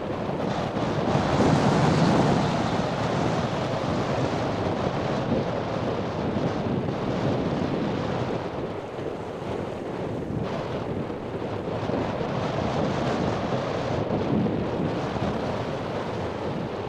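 Wind buffeting the microphone over breaking surf, a steady rushing noise that swells briefly about two seconds in.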